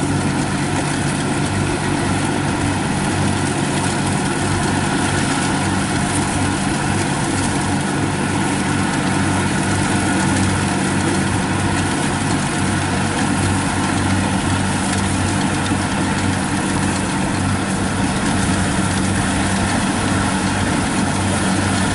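Kubota DC-70 combine harvester's diesel engine running steadily as it cuts lodged rice.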